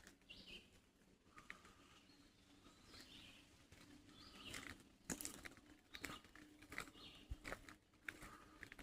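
Faint, distant birds chirping in woodland, with irregular light ticks and crunches starting about halfway through.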